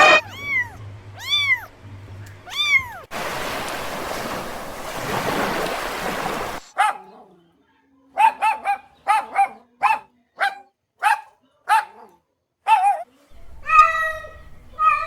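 Animal calls in separate bursts: three arched calls at the start, then a stretch of rushing, hissing noise, then a run of about ten short, evenly spaced calls, and a few longer calls near the end.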